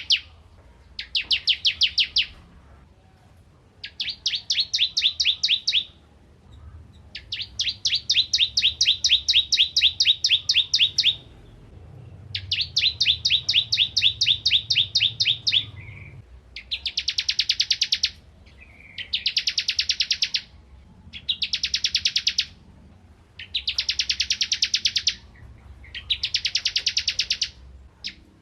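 Ciblek kristal prinia singing in repeated bursts of rapid, evenly spaced high chirps, each run lasting one to four seconds with short pauses between. The runs grow shorter and fuller toward the end.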